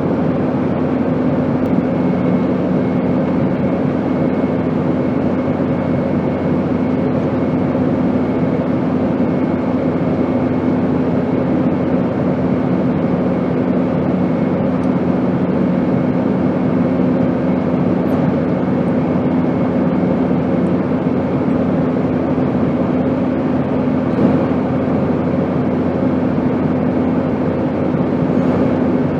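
Steady airplane noise: an even rush with a constant low hum and a fainter high tone, unchanging.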